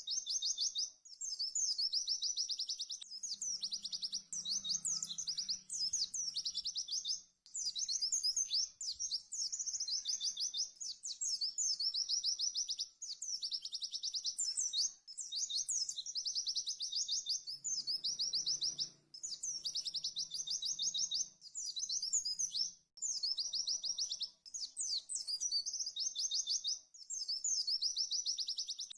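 White-eye (pleci) singing its fast 'tembakan' song: high, rapid trilled phrases, one after another with brief pauses between them.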